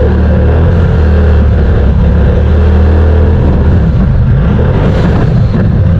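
Side-by-side UTV engine running with a loud, steady low drone that turns rougher and less even about three and a half seconds in.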